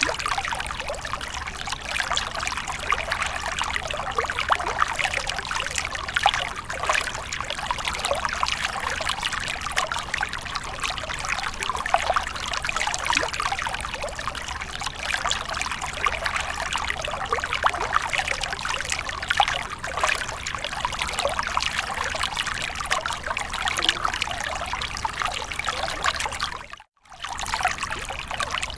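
Water splashing and trickling steadily, a dense run of small splashes, cut off for a moment near the end.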